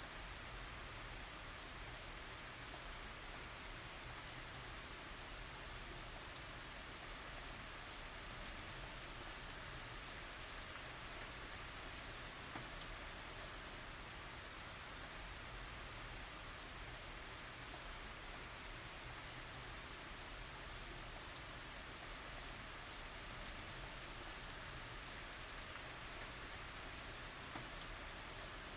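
Steady tropical rain falling, an even hiss with faint scattered drop ticks.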